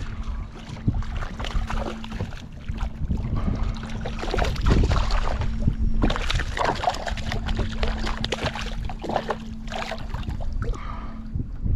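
Water lapping and sloshing against a fishing kayak's hull, with wind rumbling on the microphone, irregular small knocks and splashes, and a steady low hum that drops out briefly near the middle.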